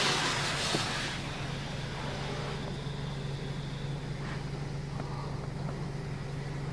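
Automatic car wash machine spraying water over the car, heard from inside the cabin: a loud hiss that falls away about a second in to a quieter, steady wash, over a steady low hum.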